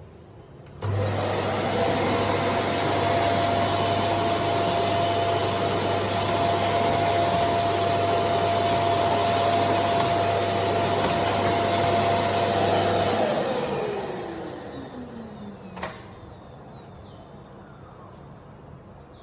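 Karcher VC 3 Plus bagless vacuum cleaner switched on, running with a steady whine and rushing air for about twelve seconds, then switched off, its motor whine falling in pitch as it spins down. A single click follows shortly after.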